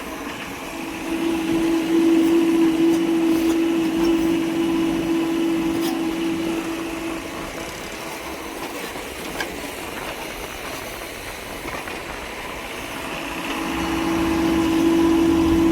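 Engine of a heavy diesel machine running with a steady drone. The drone swells about a second in, eases off after about seven seconds, and swells again near the end, as if working under load.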